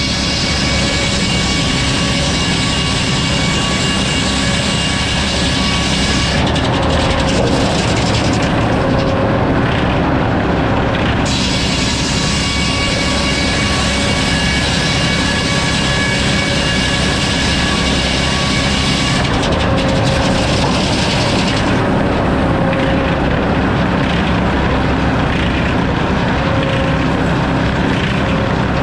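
Sawmill running steadily with a whine of several tones, sawing hardwood logs into lumber. The high, hissing part of the sound falls away twice for a few seconds, about a quarter of the way in and again about two-thirds in.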